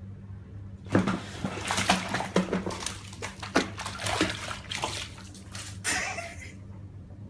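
Water splashing and sloshing in quick, irregular splashes, starting about a second in and dying away near the end, over a steady low hum.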